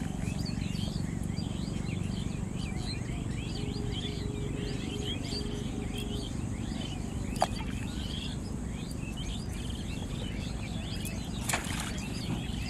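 Many small birds chirping and twittering over a steady low background rumble. A sharp click about seven seconds in and a short rush of noise near the end.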